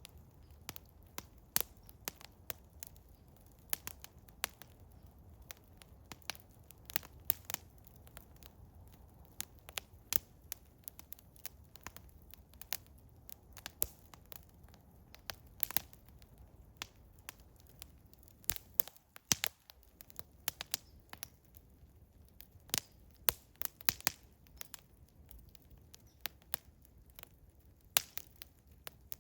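Eastern hemlock wood fire crackling, with frequent sharp, irregular pops and snaps.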